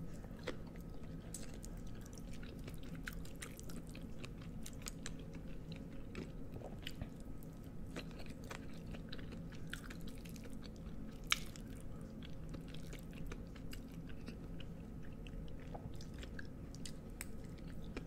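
Close-miked chewing of cheesy ramen noodles topped with crunchy Takis crumbs: soft mouth sounds with many scattered small clicks and crunches, and one sharper click about eleven seconds in.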